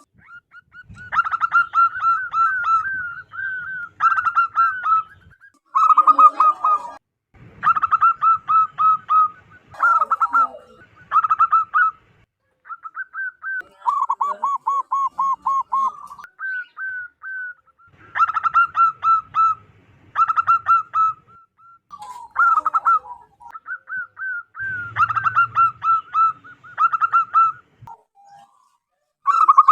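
Zebra doves giving their rapid, staccato cooing song, phrase after phrase with short pauses between, a few phrases pitched a little lower than the rest.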